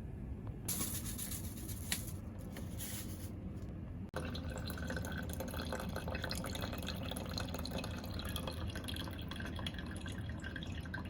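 Water dripping and trickling, with a brighter hiss in the first few seconds that changes abruptly about four seconds in to steady, crackly dripping.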